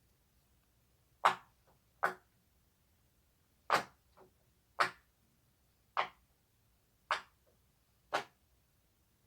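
Silicone pop-it fidget toy bubbles being pushed through one at a time: seven sharp pops, about one a second, a few followed by a faint second click.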